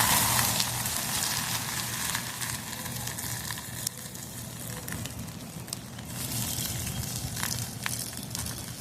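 Fire burning in a small barbecue pit, crackling and hissing steadily, with a few sharp pops near the end. A louder hiss at the very start dies away within about a second.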